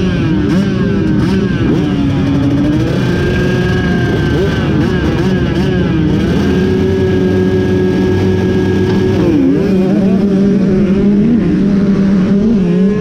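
Several off-road racing motorcycle engines running together and revving. Their pitches overlap, some holding steady for a few seconds and others rising and falling, with a dip about nine and a half seconds in.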